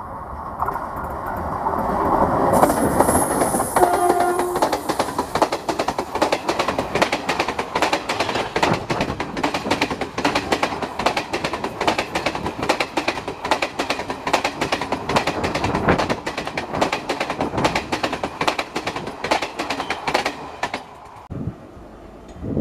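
An Indian Railways WAP-4 electric locomotive and its express train pass close by, getting louder as they approach, with a brief horn note about four seconds in. Then the coaches' wheels click rapidly and steadily over the rail joints for about fifteen seconds, before the sound stops abruptly near the end.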